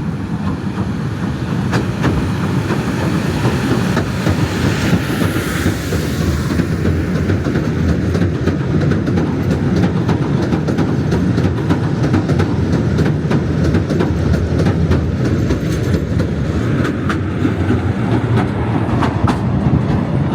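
Southend Pier Railway train running along the pier track: a steady low rumble of wheels on rails with clacking over the rail joints, and a brief hiss about five seconds in.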